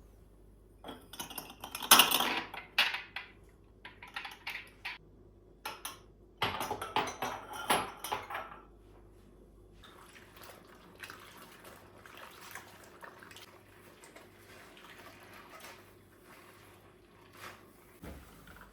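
Dishes and cutlery clinking and clattering as they are handled, in three bursts over the first eight seconds, the loudest about two seconds in; after that only faint, scattered handling sounds.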